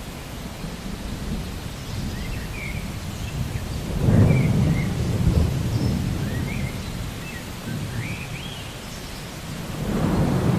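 Thunderstorm: rain falling steadily under low rolling thunder, which swells loudly about four seconds in and again near the end. A few short high chirps sound above it.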